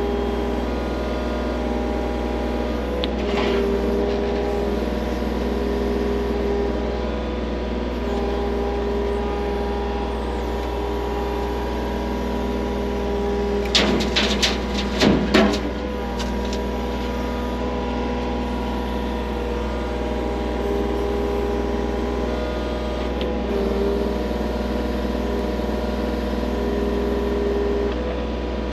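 Skid loader engine running steadily at work, with a quick run of sharp knocks about halfway through.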